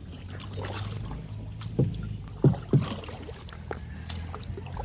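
Kayak paddles dipping and splashing in river water, with three sharp knocks or splashes about two to three seconds in, over a steady low hum.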